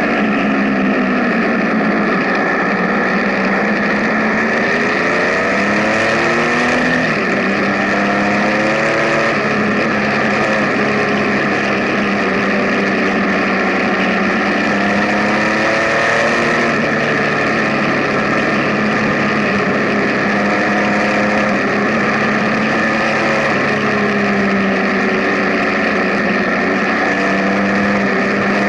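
Benelli TNT 1130's inline three-cylinder engine running under way, its pitch climbing and dropping back several times as the bike accelerates and shifts gears.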